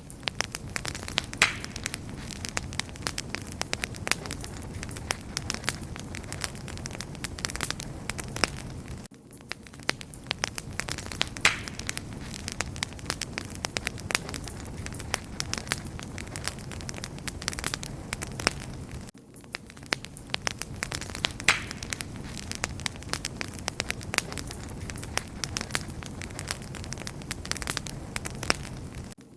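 Wood fire burning with a dense, steady crackle of sharp pops and snaps over a soft low rumble. The same stretch of crackling repeats about every ten seconds, each time after a brief dip.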